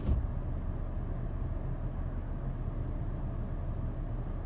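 A vehicle engine idling: a steady low rumble with an even hum and no change in speed.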